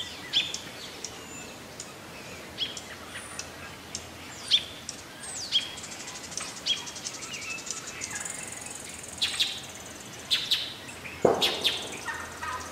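Outdoor birds calling: short, high, falling chirps every half second to a second, with a buzzy high trill in the middle. A sharper, louder sound comes near the end.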